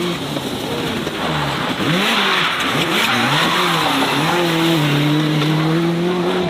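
Race car engine accelerating hard, its revs swinging up and down through gear changes, then holding a steady high note for the last couple of seconds.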